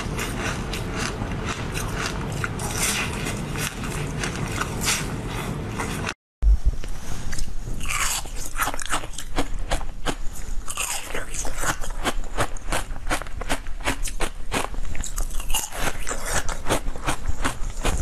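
Close-up eating sounds: chewing a seed-studded jelly, with a busy wet, crunchy texture. After a brief cutoff about six seconds in comes a green jelly being bitten and chewed, giving many sharp, crisp crunches and clicks, several a second.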